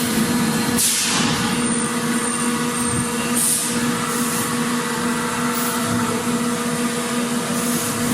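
Factory machinery running with a steady low hum and a higher hum an octave above it, under a constant noisy wash. Short bright hisses break in about a second in and again at about three and a half seconds.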